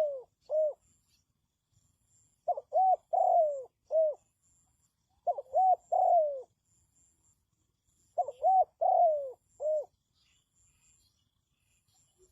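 Spotted dove cooing: a phrase of about four short, arching coo notes, repeated about every three seconds, three full phrases after the end of one just before.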